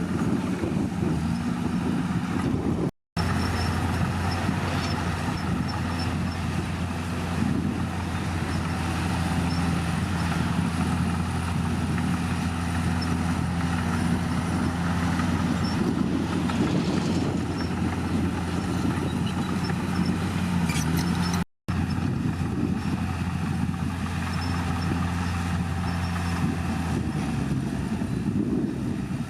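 Heavy diesel engine of a bulldozer running steadily, with the sound cutting out completely for an instant twice.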